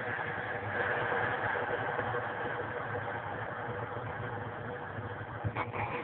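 Wagner wallpaper steamer running steadily while steaming the freezer: a continuous hiss and rumble with a low hum, and a short knock about five and a half seconds in.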